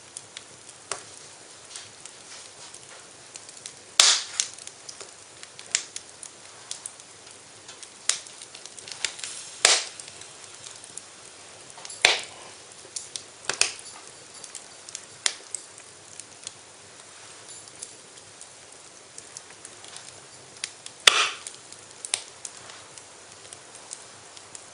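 Wood fire in a fireplace crackling, with irregular small clicks and a few loud sharp pops, the loudest about four, ten, twelve and twenty-one seconds in, over a faint steady hiss.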